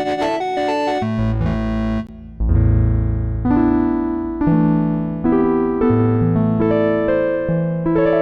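Electric-piano-like synth keys from the UVI Synth Anthology 5 software synthesizer playing chords over a bass line. A quick run of notes plays first; the sound breaks off briefly about two seconds in, then comes back as held chords over a stepping bass.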